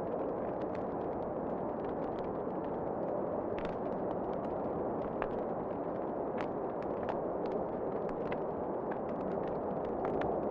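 Wood fire in a fireplace crackling, with irregular sharp pops and snaps over a steady rushing roar.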